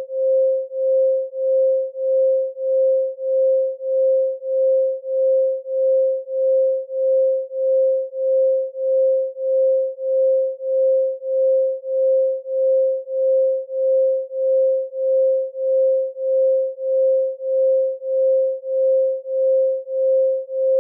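A pure 528 Hz sine tone held at one steady pitch, swelling and fading evenly about three times every two seconds.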